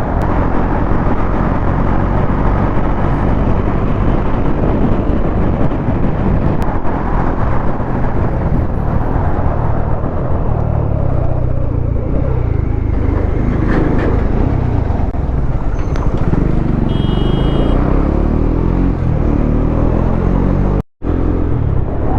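Bajaj Dominar 400's single-cylinder engine running on the move under heavy wind rush, its pitch rising and falling with the throttle in the second half. The sound cuts out briefly near the end.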